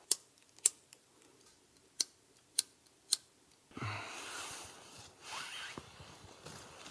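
Sharp clicks or snaps while a small campfire is being lit: five in about three seconds, about half a second apart, then a rustling hiss from just before the middle.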